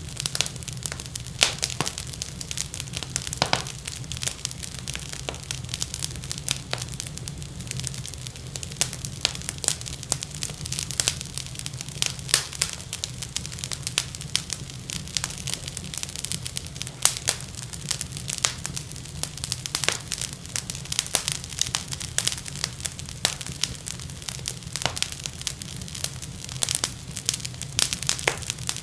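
Wood fire crackling in a fireplace: dense, irregular pops and snaps, with a steady low rumble underneath.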